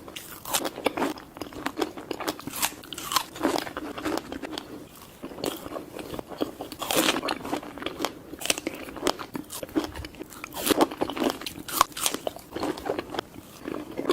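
Close-miked eating: a person biting and chewing crunchy food, with many irregular crunches throughout.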